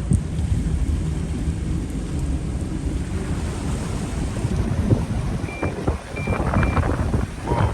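Vehicle driving slowly through deep floodwater, heard from inside the cabin: a low steady rumble of engine and water washing against the body and tyres. About five and a half seconds in, the car's sensor gives three short high beeps, set off as the car wades through the water.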